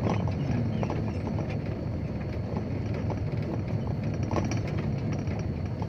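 Dump truck's diesel engine running steadily as the truck drives, with scattered knocks and rattles.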